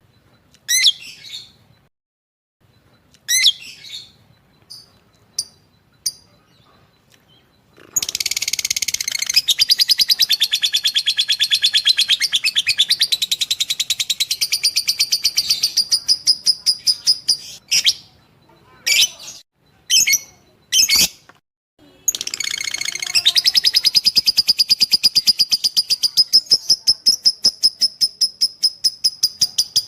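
Lovebird singing: a few short sharp calls, then long runs of rapid, evenly repeated high chirps, the drawn-out chattering song that lovebird keepers call 'ngekek'. One run starts about eight seconds in and breaks off about halfway through. The second begins a few seconds later and carries on.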